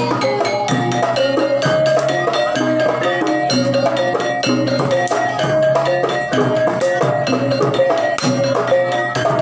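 Javanese gamelan music of the kind played for jaranan (kuda lumping) dance: struck metal-keyed instruments and drums in a dense run of short notes.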